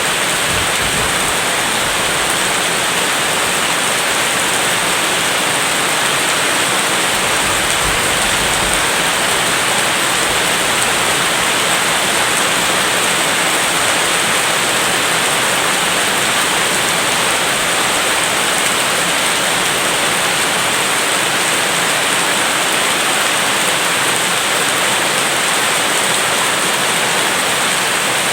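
Steady rain, an even unbroken hiss with no thunder or crackles standing out.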